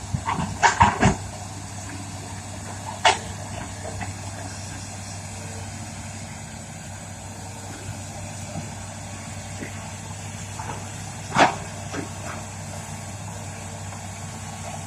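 Hitachi Zaxis200 excavator's Isuzu 6BG1 six-cylinder diesel engine running steadily. A few sharp knocks cut through it: several in the first second, one about three seconds in, and one near eleven and a half seconds.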